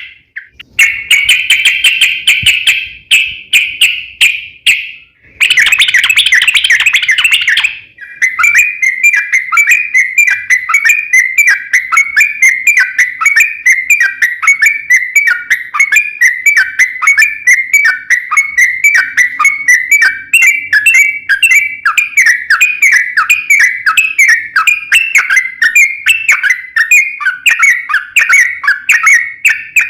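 Yellow-vented bulbul (trucukan) singing loudly: dense chattering phrases for about the first eight seconds, then a long unbroken run of quick repeated whistled notes, several a second.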